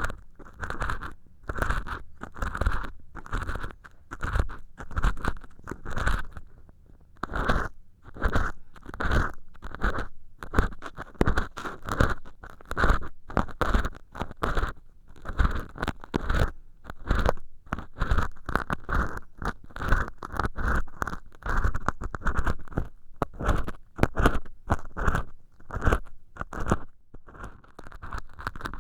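An ear pick scratching and scraping inside a silicone dummy ear whose canal is lined with acrylic dish-scourer material. It moves in short, irregular strokes, about one or two a second, with a few brief pauses.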